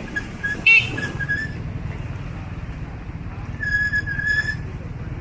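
A high, whistle-like tone held for about a second near the middle, after a few short high chirps and one brief loud pitched call under a second in, over a steady low background rumble.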